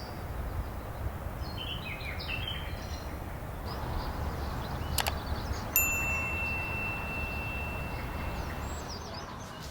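Quiet room ambience with a low hum and a few faint bird chirps early on, a sharp click about five seconds in, then a single bright chime ringing out and fading over about three seconds.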